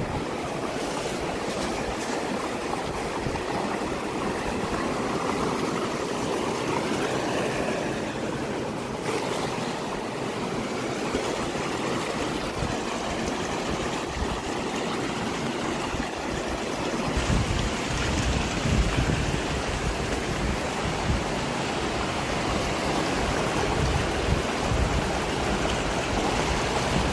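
Fast-flowing river rushing steadily. Wind buffets the microphone in gusts from a little past the middle.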